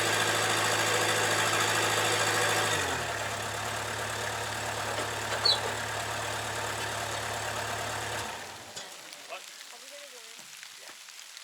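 Bobcat 773 skid steer's diesel engine running steadily, then throttling down to a lower idle about three seconds in and shutting off near the end.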